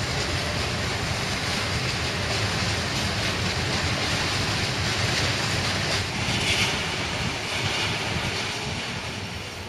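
Freight train wagons rolling past on the rails, a steady noise of steel wheels on track. A brief high-pitched screech sounds about six and a half seconds in.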